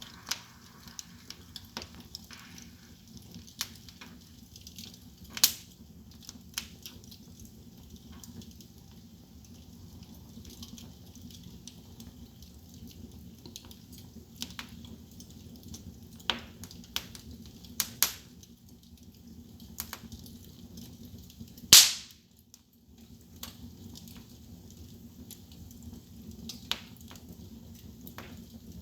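Wood fire in a fireplace crackling, with irregular sharp pops and snaps over a low steady background, and one much louder pop about three-quarters of the way through.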